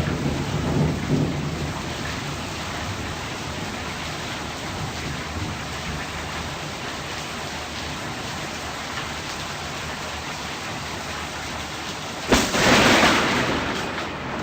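Steady rain in a thunderstorm, with low thunder rumbling in the first second or so. About twelve seconds in, a close lightning strike brings a sudden loud thunder crack that lasts a couple of seconds.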